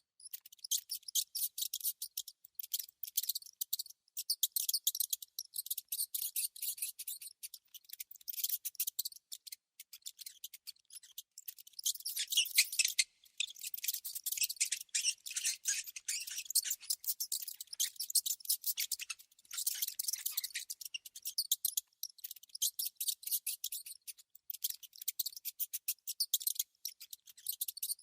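Rats giving rapid, dense trains of high-pitched clicks and squeaks, in clusters with brief pauses.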